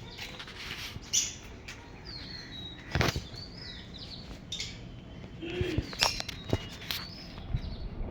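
Small caged birds chirping and calling, mixed with several sharp clicks and knocks; the loudest knocks fall about three seconds in and around six seconds in.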